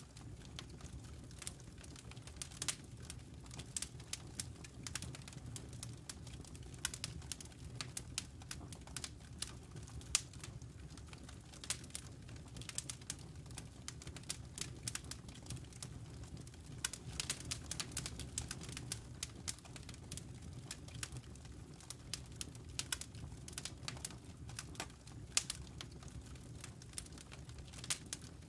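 Campfire embers crackling: irregular sharp snaps and pops, dense throughout, over a low steady rush of burning.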